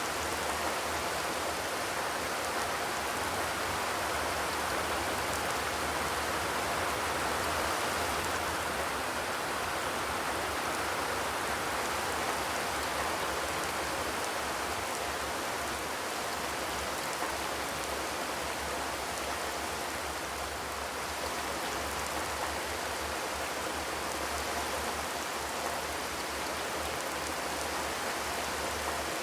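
Steady rain falling on a zinc (corrugated metal) roof, an even wash of patter with no thunder.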